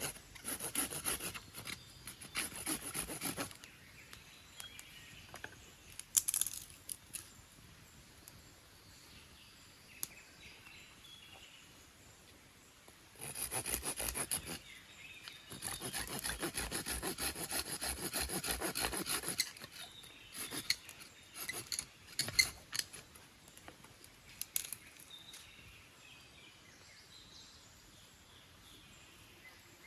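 Three bursts of fast, repeated scraping strokes, a few seconds each, with scattered sharp knocks and clicks between them.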